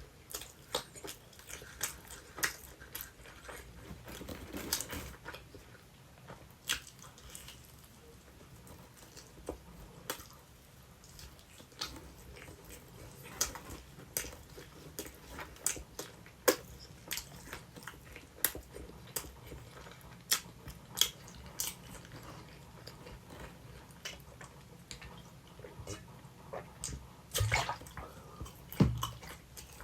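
Close-up chewing of sweet potato pizza: irregular wet mouth clicks and bites, with a louder cluster of bites near the end.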